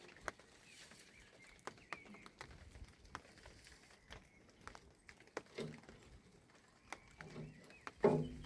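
Scattered light knocks and clicks, with a few short animal calls in the second half, the loudest near the end.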